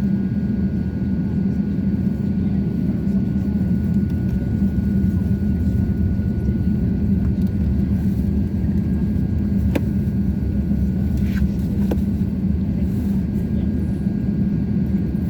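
Steady low rumble inside an Airbus A350-900 cabin while taxiing: the engines and air conditioning running, with a faint steady high whine over it and a couple of light ticks near the end.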